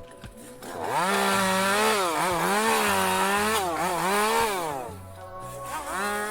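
Chainsaw engine revving, its pitch rising and dipping several times from about a second in, easing off near five seconds and revving up again near the end, over steady background music.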